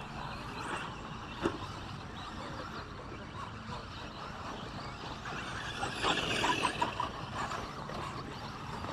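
Radio-controlled 2WD short course trucks racing: a continuous mix of small motors and tyres on the track. There is one sharp knock about a second and a half in, and a louder stretch of rapid clatter around six to seven seconds in.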